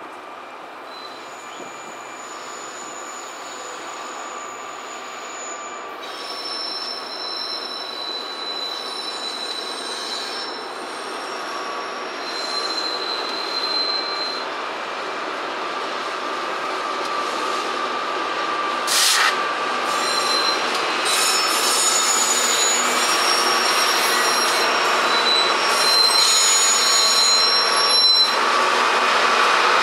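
BNSF freight train with GE diesel locomotives passing close by, getting steadily louder, with steel wheels squealing in thin high-pitched tones. There is a brief loud burst of noise about two-thirds of the way through.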